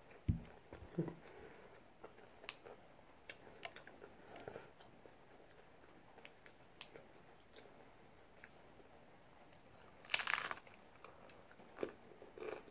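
Faint chewing and crunching of a hard taco shell, with scattered small crisp clicks and a louder crunch about ten seconds in. A dull thump just after the start as a glass is set down on the table.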